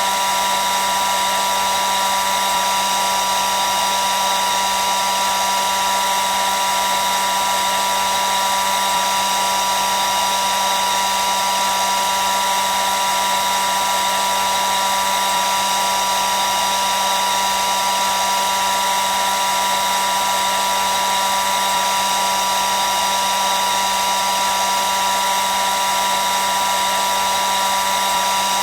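Hair dryer running continuously: a steady airflow rush with a constant high motor whine that never changes.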